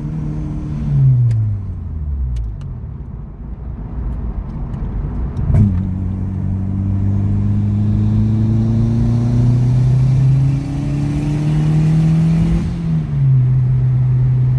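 Turbocharged Honda D17 four-cylinder engine in a Civic under way. The revs fall away at first, then about five and a half seconds in it pulls under throttle, its note climbing steadily for about seven seconds with a hiss over it, before dropping back and settling to a steady note.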